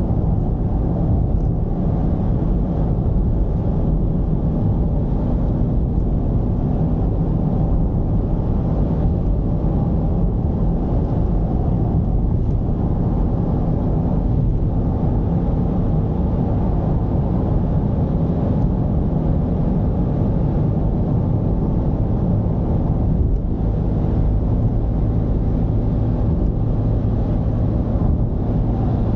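Mercedes-Benz V220 d's four-cylinder turbodiesel engine running steadily on the move, over a haze of road noise; the engine note shifts slightly about 23 seconds in.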